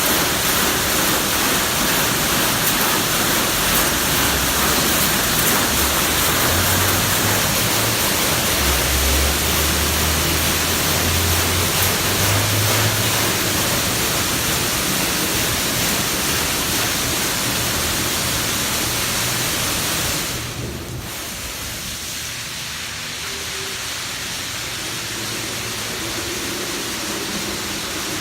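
High-pressure water jets of a touch-free automatic car wash spraying over a car, a steady loud hiss of water with a low hum under it for a while. About twenty seconds in, the spray drops off and a quieter spray carries on.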